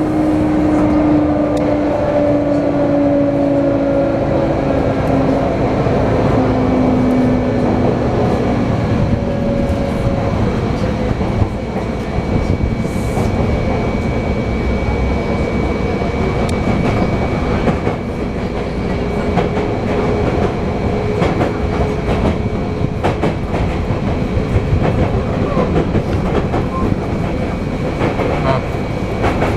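Sotetsu 8000 series electric train heard from inside the car while running, with the Hitachi IGBT-VVVF inverter and traction motors humming. Their tones glide slowly downward over the first ten seconds or so. Steady rolling noise continues throughout, with the wheels clicking over rail joints.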